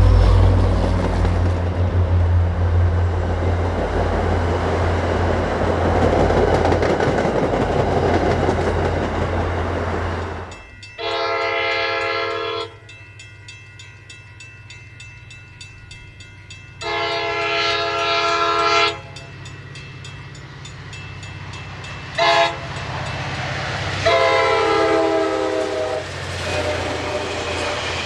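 EMD F40PH diesel locomotive running past with a loud low rumble, then sounding its multi-chime air horn in the grade-crossing signal: two long blasts, one short, and a final long one.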